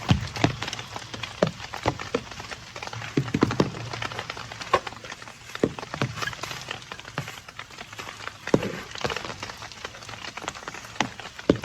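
Heavy rain falling, with large drops tapping sharply and irregularly on a nearby surface over a steady hiss.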